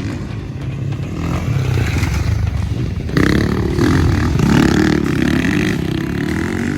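Motocross bike engine revving hard, its pitch rising and falling through the gears, louder from about three seconds in.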